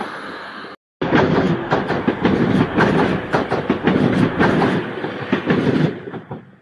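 A passenger train passes close by. Its wheels clatter over the rail joints in a loud, fast clickety-clack, which fades in the last second as the rear of the train draws away. Before that, another train's steady rumble is cut off abruptly about a second in.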